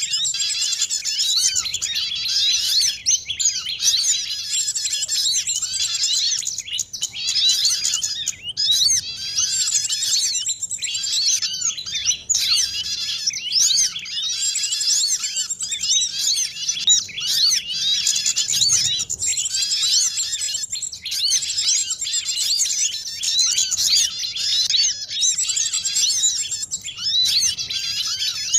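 A dense chorus of many small songbirds, chirping and twittering rapidly and continuously, with overlapping high, quick sweeping notes. It is a bird-lure (pikat) call mix meant to draw small birds down.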